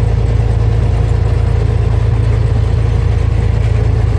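Vehicle engine running steadily, with a constant low drone and no change in speed.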